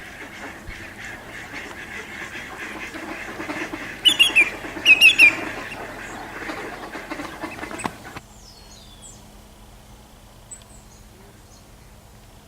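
Waterfowl, ducks and geese, calling together in a flock, with a few loud nearby calls about four and five seconds in. The calling cuts off suddenly about eight seconds in, leaving a steady low hum and a few thin, high bird calls.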